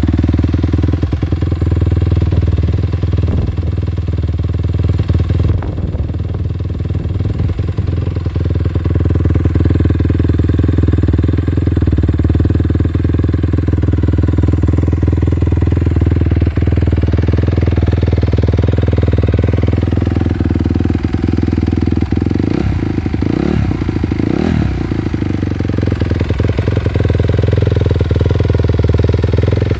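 2013 Honda CRF250R single-cylinder four-stroke motocross engine running through Yoshimura RS-9 twin exhausts, warming up steadily after a cold start. About three quarters of the way through its pitch rises and falls a few times as the throttle is blipped.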